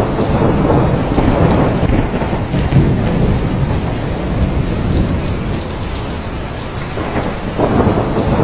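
Thunderstorm: steady heavy rain with rolling thunder that swells in the first few seconds and rumbles up again near the end.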